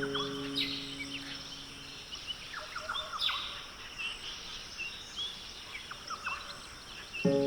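Birds chirping and calling: short chirps and quick downward-sweeping notes, repeated irregularly over a light hiss. A held music chord dies away in the first two seconds, and a new chord comes in just before the end.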